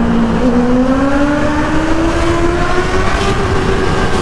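Honda CBR650R's inline-four engine through an aftermarket full exhaust, pulling steadily in gear in a tunnel, its note rising slowly and evenly.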